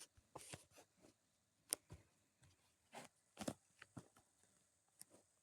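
Near silence with a scattering of faint short clicks and taps.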